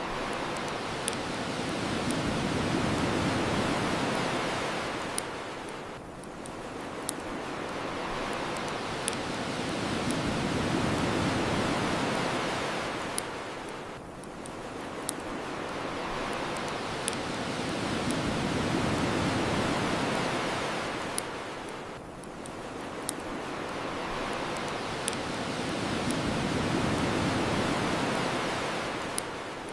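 Ocean waves washing onto a shore, each swelling and fading about every eight seconds, with a bonfire crackling: sharp pops every second or two.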